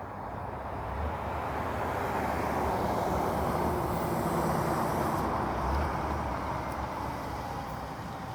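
A truck driving past on the road, its engine and tyre noise getting louder toward the middle and then fading.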